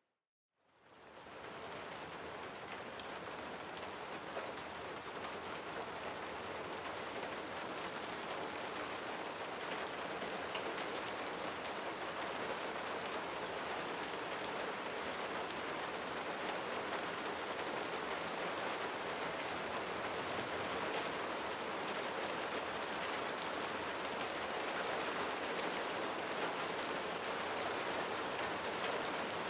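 Steady rain falling, a dense even patter of drops. It fades in from a brief silence at the start.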